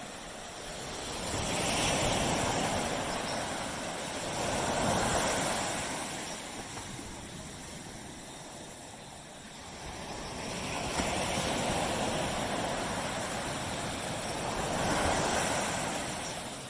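Waves breaking and washing up a beach. The surf swells and fades four times, in two pairs of surges with a lull between them.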